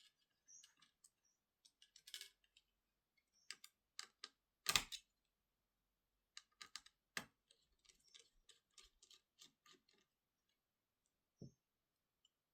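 Faint, irregular clicks and taps of small tools and parts being handled on a laptop during disassembly, with a louder knock about five seconds in and a dull thump near the end.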